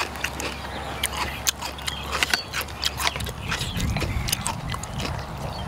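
Close-miked chewing of raw offal: a steady run of wet mouth clicks and smacks at irregular intervals.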